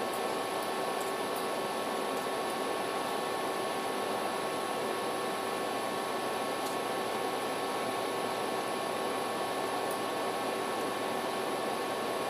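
Steady hiss of background noise with a few faint, steady humming tones and occasional faint high ticks.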